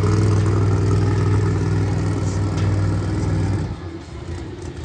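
Monster truck engine running loud and steady, then falling off sharply about three and a half seconds in, leaving a quieter engine sound.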